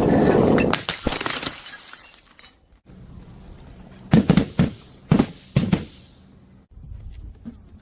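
A glass bottle shattering: a loud crash with shards tinkling as it dies away over about a second. About four to five and a half seconds in come several sharp cracks and knocks.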